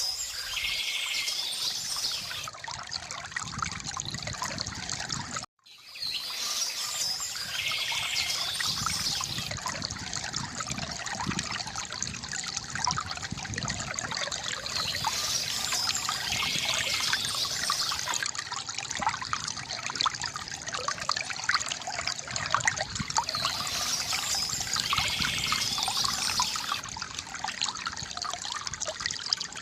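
River water trickling and gurgling steadily, with birds chirping. The chirps come in a similar burst about every eight or nine seconds. The sound cuts out briefly about five and a half seconds in.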